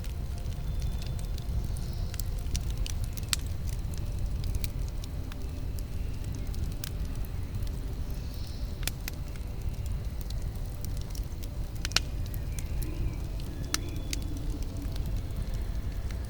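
Campfire burning: a steady low rumble with scattered crackles and pops of the burning wood, the sharpest pop about twelve seconds in.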